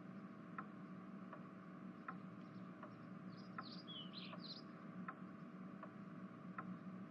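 Faint regular ticking, about four ticks every three seconds, over a low steady hum, with a few faint high chirps about halfway through.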